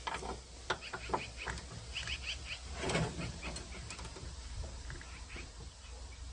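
A small ratchet wrench working a door hinge bolt, making irregular light clicks and clinks. A cluster of short high chirps comes about two seconds in, and a louder clatter about three seconds in.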